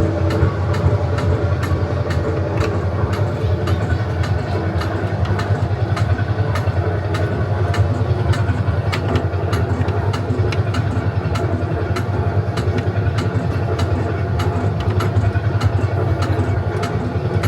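Metallbau Emmeln tractor ride vehicle moving along its course: a steady low engine-like rumble with many scattered clicks and knocks.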